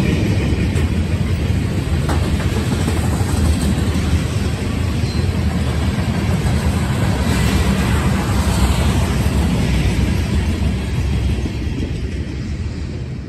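A freight train of tank cars rolling past: a steady rumble and rattle of steel wheels on rail, fading near the end as the last car goes by.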